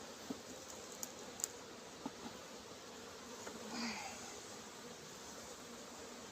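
Honeybees buzzing around an open hive, a steady hum, with a few light clicks in the first two seconds and a brief louder swell a little before four seconds in.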